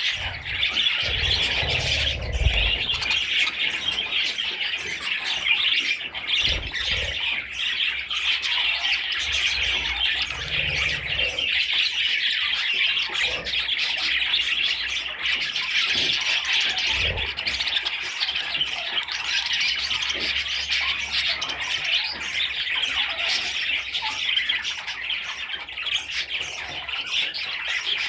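Many budgerigars chattering and squawking at once, a dense, continuous warbling, with a few low thumps mixed in.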